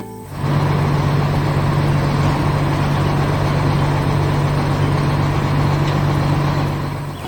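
A heavy vehicle's engine running steadily: a loud, low hum under a rough rumble. It starts abruptly and fades out near the end.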